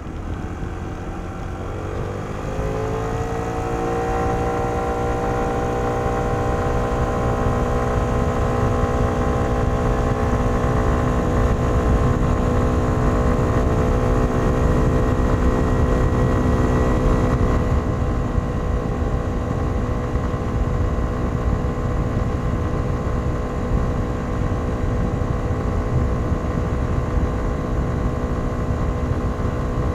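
Kymco Downtown 125i scooter's single-cylinder 125 cc engine through its stock exhaust, heard onboard while riding. The engine note rises quickly for a couple of seconds as it accelerates, then holds at a steady pitch, easing slightly about halfway through, over a low rumble.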